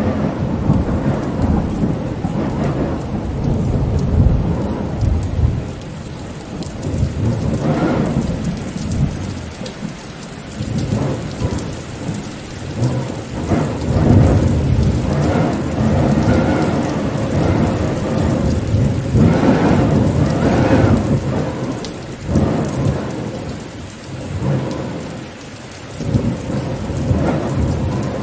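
Rainstorm: steady rain with a low rumbling that swells and fades several times.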